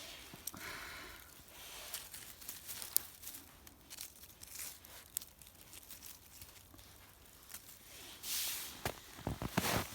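Newspaper and small twigs being handled: soft rustling and crinkling with scattered small cracks, louder for a moment about eight seconds in.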